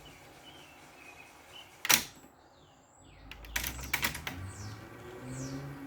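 Cassette deck transport keys and mechanism clicking: one sharp click about two seconds in, then a quick cluster of clicks with a low rumble a second later. Faint high falling chirps repeat near the end.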